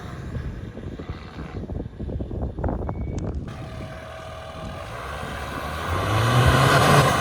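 Mitsubishi L200 pickup engine labouring off-road through deep snow, its revs rising and the sound getting louder about six seconds in.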